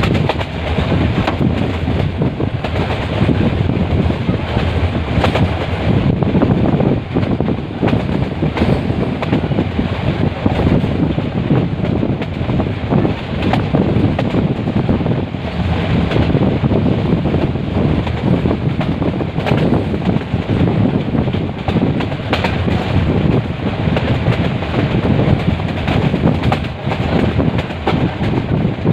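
Metre-gauge passenger train running along the line, a steady loud rumble with wind buffeting the microphone.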